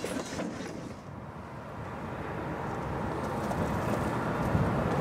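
Noise of a passing diesel freight train dies away over the first second. After that a low, distant rumble slowly grows louder.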